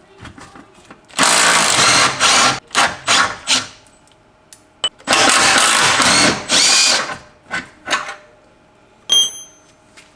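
Handheld power tool run in bursts on the car's fasteners: two long runs of about two seconds each, each followed by a few short blips of the trigger. A single bright metallic ring comes just after nine seconds in.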